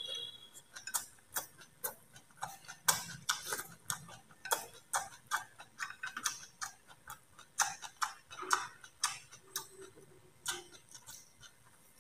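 A person chewing a mouthful of food with the mouth closed: soft, irregular wet clicks and smacks, two or three a second, growing fainter toward the end.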